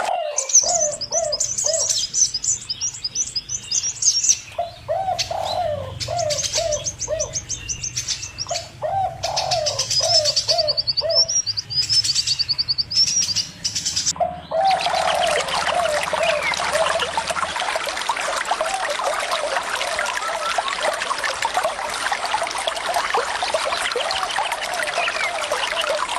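Birds calling: short runs of quick low notes repeated in series, with fast high-pitched twittering over them. About halfway through, a steady rush of running water comes in and covers most of the birdsong.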